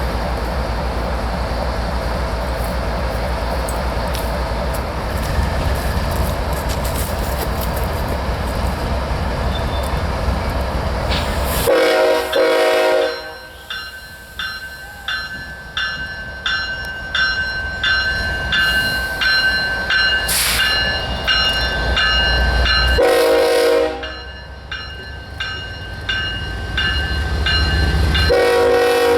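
A train running by with a steady low rumble, then a locomotive horn sounding three short blasts: about twelve seconds in, about twenty-three seconds in, and near the end. Between the blasts a bell rings steadily, about one and a half strokes a second.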